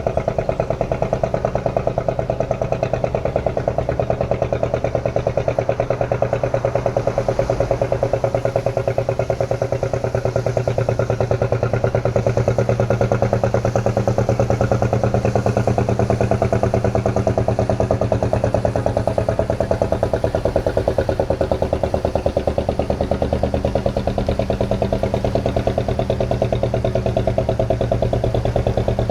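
A small boat's engine running steadily at constant speed, with an even, regular chugging pulse.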